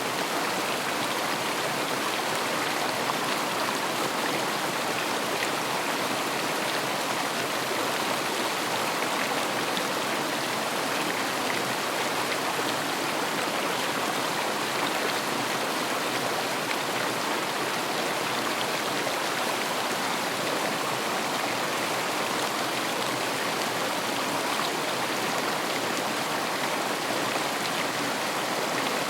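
River water flowing steadily over stones, an even rushing and babbling.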